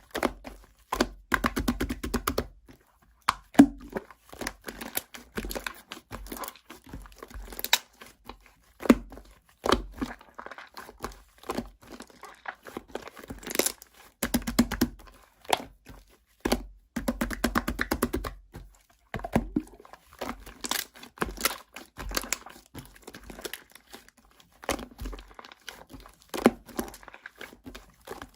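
Close-up crinkling and tearing noises: a run of short, sharp rustles and cracks with brief pauses between them.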